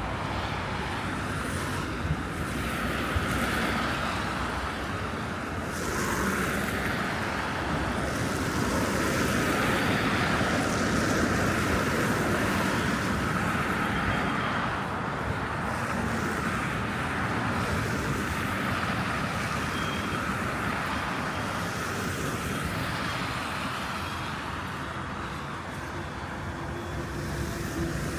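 Steady road traffic: cars driving past on snowy roads, a continuous wash of tyre and engine noise that grows louder in the middle and eases off near the end.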